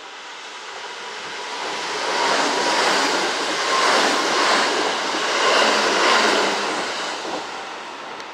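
Kintetsu electric train passing through the station, its running noise building over about two seconds, staying loud for about four seconds, then fading away.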